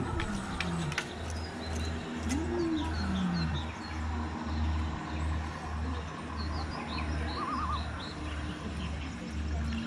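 Small birds chirping over a low throb that pulses about twice a second, with a few sharp clicks in the first two seconds.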